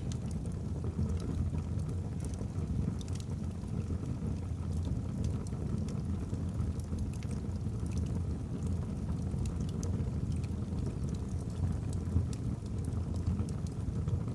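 Wood fire burning in a fireplace: a steady low rumble of flames with faint, scattered crackles and pops from the burning logs.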